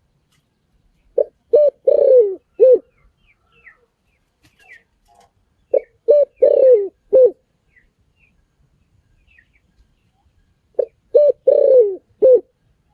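Spotted dove cooing: three repeats of the same phrase, each two short coos, a longer falling coo and a final short coo, about every five seconds. Faint chirps of other small birds sound between the phrases.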